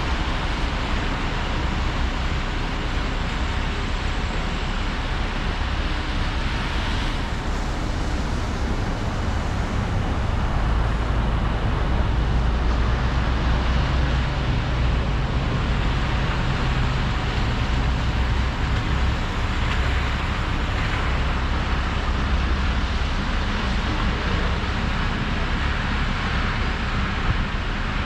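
Volvo 235EL excavator's diesel engine running steadily under load, a constant low hum with hydraulic and machine noise, a little heavier near the middle.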